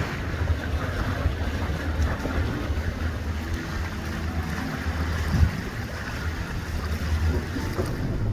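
A boat motor running steadily under way, with a low rumble and the hiss of wind and water.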